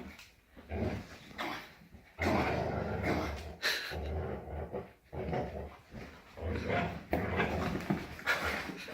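A dog panting and worrying at a toy doll, in irregular bursts of about a second with short pauses between them.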